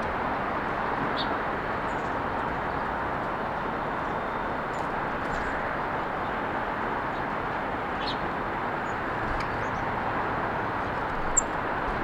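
Steady hum of road traffic, with a few short, high bird chirps over it and a sharper chirp near the end.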